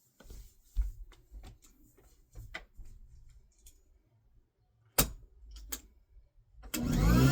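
Scattered clicks and knocks of handling, with a sharp click about five seconds in. Near the end a Sanitaire S647 upright vacuum's motor switches on and spins up, its whine rising in pitch.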